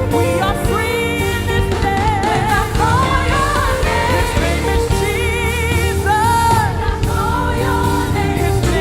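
Live gospel praise-and-worship music: a singer's voice with vibrato over a band with sustained keyboard chords and a steady bass beat.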